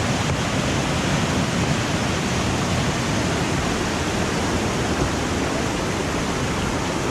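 Waterfall: steady rush of falling water, loud and even throughout.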